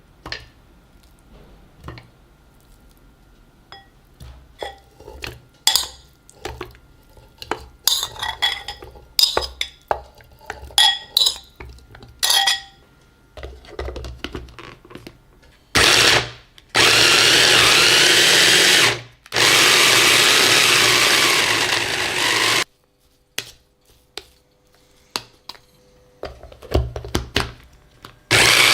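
Kitchen prep sounds: a run of clicks and taps of utensils against dishes, then an electric blender running loudly for about six seconds, stopping briefly once, and starting again near the end.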